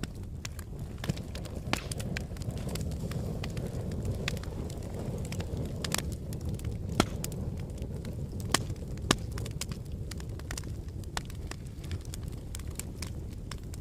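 Wood fire burning in a fireplace: a steady low rumble of flames with frequent sharp crackles and pops, a few louder snaps about halfway through.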